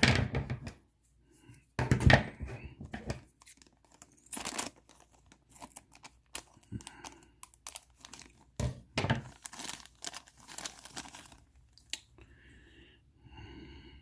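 Plastic bags of miniatures being crinkled and torn open by hand, in irregular rustling, crackling bursts.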